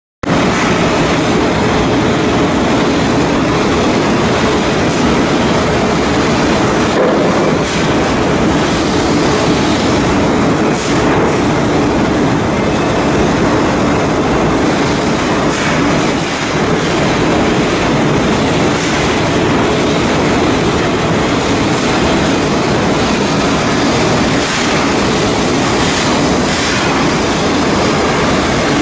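Loud, steady mechanical noise of industrial work, with a few faint knocks.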